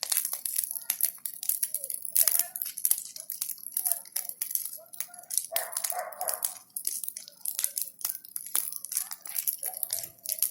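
Burning branches crackling and popping in a large bonfire, with a dog barking a few short times over it.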